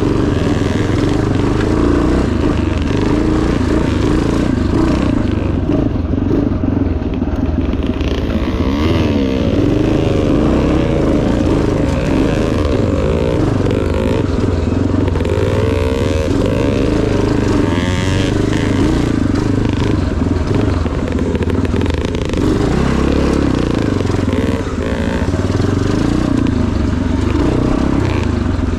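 Yamaha TT500 single-cylinder four-stroke motorcycle engine running hard in an off-road race, its revs rising and falling continuously through gear changes and throttle work, with some clatter from the bike.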